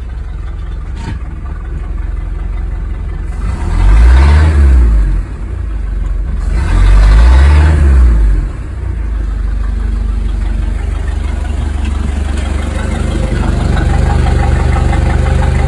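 Boat engine running after a fresh start, revved up twice briefly with the throttle and then settling into a steady idle.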